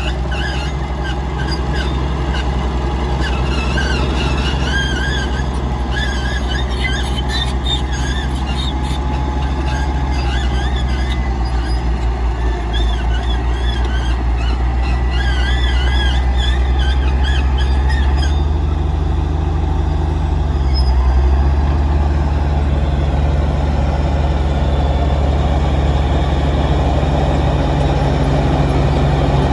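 Diesel engine of a tracked earthmoving machine (bulldozer or excavator) running under load, with a wavering high metallic squeal from the moving crawler tracks. The squeal stops about two-thirds of the way through, and the engine note shifts a moment later and runs on.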